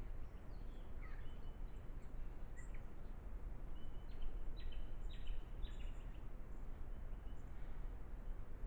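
Small birds chirping faintly, short high calls scattered mostly through the first two thirds, over a steady background hiss.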